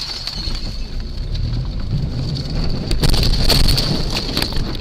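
Loud steady rumble of vehicle and wind noise on the microphone, with a thin high-pitched whine over it and a few sharp knocks about three seconds in.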